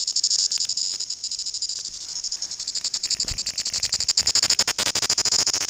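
Chorus cicadas (Amphipsalta zelandica) calling: a loud, high-pitched rattling buzz made of very rapid pulses, growing denser and harsher a little past halfway.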